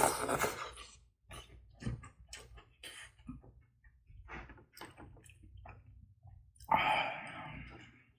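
Close-miked eating: a person chewing, with a run of short wet mouth clicks and two louder noisy bursts, one at the start and one near the end.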